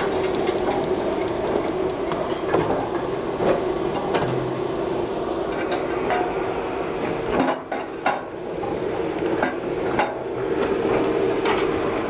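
A machine's engine running steadily, with scattered metallic clanks and knocks from work on heavy equipment.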